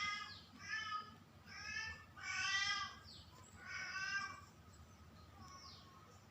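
A cat meowing over and over, about five calls roughly a second apart; the longest and loudest comes in the middle, and the calls then grow faint.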